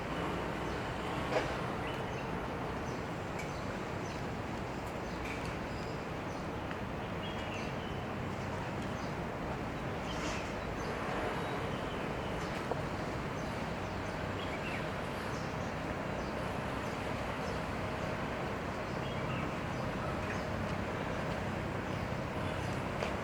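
Steady harbourside ambience: a constant low engine drone under a wash of background noise, with a few faint short chirps and clicks.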